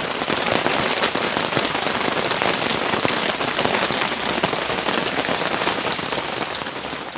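Steady rain falling, the drops pattering as a dense crackling hiss.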